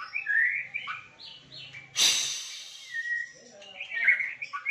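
Songbird chirping and singing in quick short notes that slide up and down, with one loud harsh, rasping burst about two seconds in.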